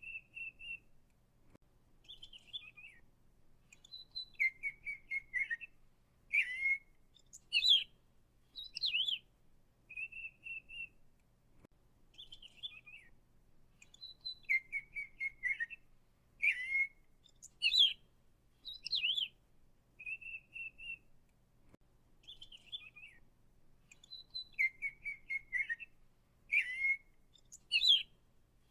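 A songbird chirping and whistling in short phrases: falling whistles, quick trills and a steady whistled note. The same run of phrases repeats about every ten seconds.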